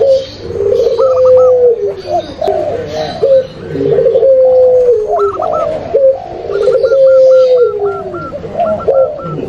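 Zebra doves, spotted doves and puter pelung collared doves cooing together in an overlapping chorus. Drawn-out low coos that drop in pitch at the end come every second or two, mixed with quick runs of short higher notes.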